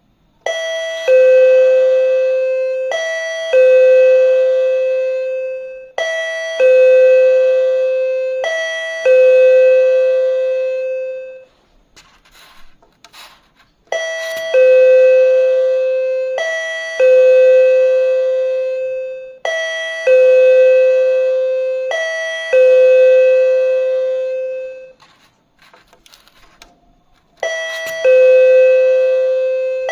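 Electronic ding-dong chime of a token display system: a higher note then a lower note that rings on and fades, repeated about every three seconds in runs of four. Between the runs come two short pauses with faint clicks.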